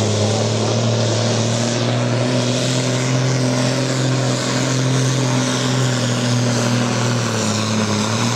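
Diesel tractor engine at full load pulling a weight-transfer brake sled, running at steady high revs; the revs drop slightly near the end.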